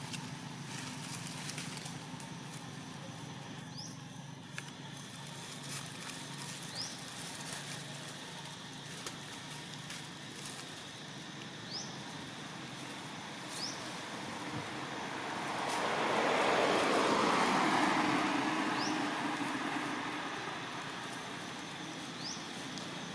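Outdoor background with a steady low hum and a vehicle passing by: a broad rushing noise builds about two-thirds of the way through, peaks, and fades away over several seconds. Short, high rising chirps sound every few seconds.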